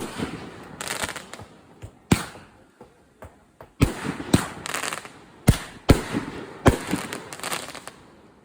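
500-gram consumer firework cakes firing: a rapid, irregular series of sharp bangs, about a dozen, with crackling between the breaks.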